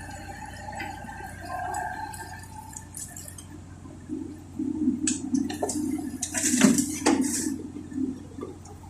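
Komatsu PC70-8 excavator working: a steady running sound, then, from about halfway, a louder spell of metallic clanks and scraping as the bucket works the soil.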